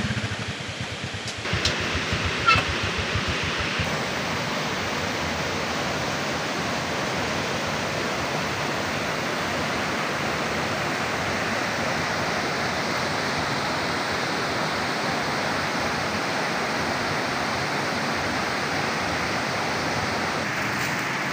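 Steady rushing of water, a river or heavy rain, with a couple of sharp clicks in the first few seconds.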